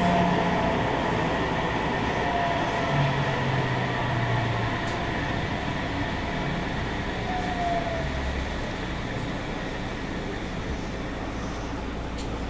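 Sendai Subway 1000N-series train running in the tunnel and slowing, heard from inside the car: steady wheel and running rumble with short falling motor tones, easing off gradually as it brakes into a station.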